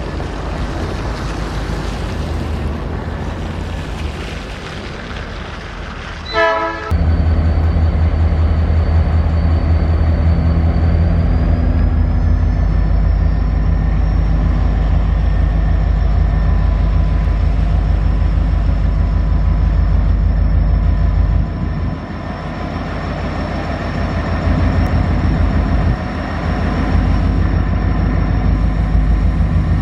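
Alaska Railroad Hurricane Turn train: a brief horn toot about six seconds in, then the diesel engine's low rumble jumps much louder and stays loud, with a steady high whine over it.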